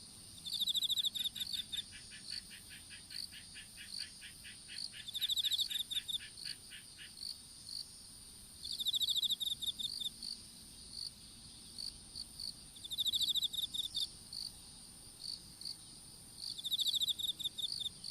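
Several kinds of insects calling together in a field: a steady high-pitched trill, short repeated chirps, and a pulsed trill that comes back about every four seconds. For the first six seconds or so a lower call of evenly spaced clicks, about four a second, runs underneath.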